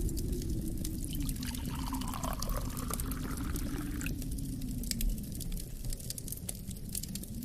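Wood fire crackling in a fireplace, with sharp pops over a steady low rumble of wind. A hiss swells in the middle and stops abruptly about four seconds in.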